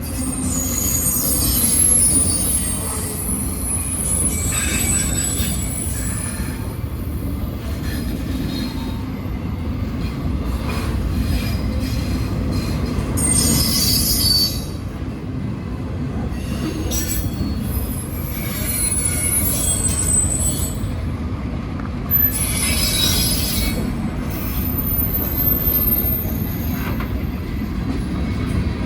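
Freight train rolling past, its wheels squealing in high-pitched, on-and-off screeches over a steady low rumble.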